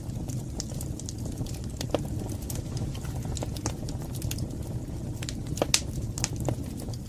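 Wood fire burning in a fireplace: irregular sharp crackles and pops over a steady low rumble of the flames, with one louder pop about two-thirds of the way through.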